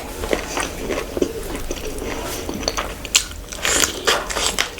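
Close-up eating sounds: chewing with wet mouth smacks and clicks, and a few crunchy bites about three to four seconds in.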